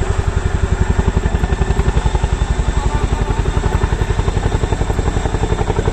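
Boeing CH-47 Chinook tandem-rotor helicopter hovering close by, its rotor blades beating in a rapid, steady, even pulse over the loud drone of its engines.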